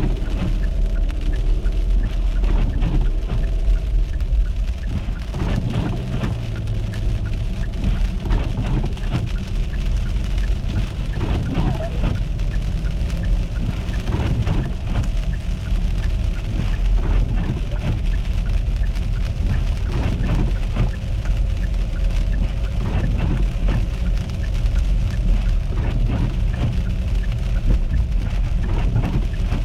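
A car driving in an ice storm, heard from inside: a steady low road and engine rumble with many short, irregular ticks and swishes over it.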